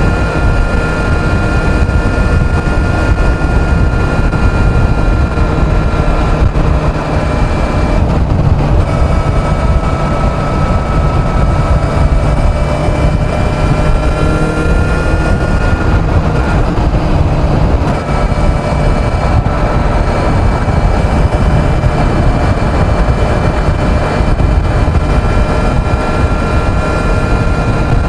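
Kawasaki Z900's inline-four engine running steadily at highway speed, with heavy wind rush over the microphone. The engine note shifts briefly about a third of the way in and again past the middle, then settles back to a steady cruise.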